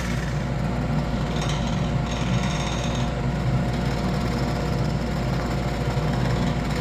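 Wood lathe running steadily, its motor giving a constant hum.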